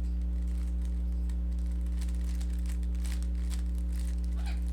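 Rubik's cube being turned by hand, its plastic layers giving quick irregular clicks and rattles while an algorithm is run, over a steady low hum.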